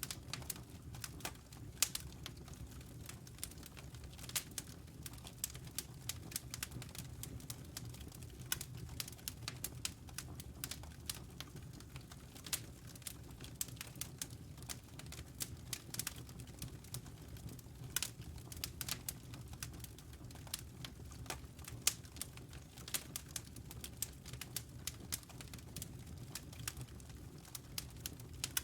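Log fire crackling in a fireplace: irregular sharp pops and snaps over a low, steady rumble of the flames.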